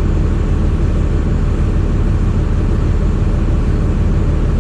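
An engine running steadily, a loud low even rumble with no change in speed.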